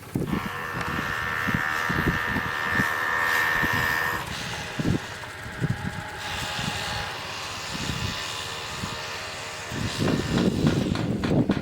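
Farm machinery running steadily with a high whine that stops about four seconds in, over irregular low rumbling.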